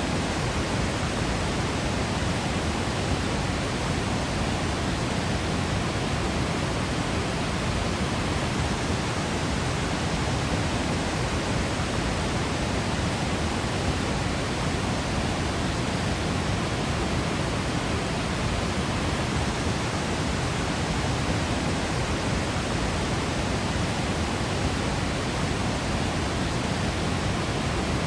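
Waterfall in Yosemite falling, a steady, even rush of water.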